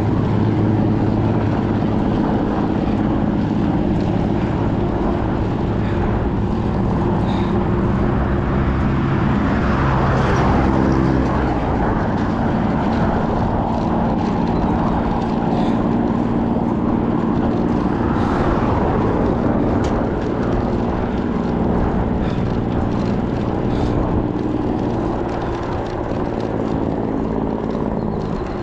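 A vehicle engine running steadily while on the move, its pitch holding for a few seconds at a time and then shifting as the speed changes, over a constant rush of road and wind noise. Around ten seconds in, the pitch briefly sweeps.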